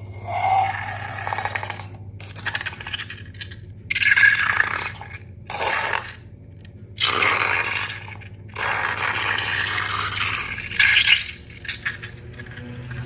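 Glossy slime being squished, stretched and folded by hand, giving sticky crackling and popping sounds in bursts of a second or two with short pauses between.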